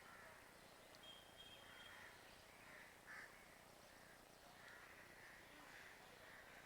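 Near silence with several faint, distant bird calls, plus a brief thin whistle-like tone about a second in.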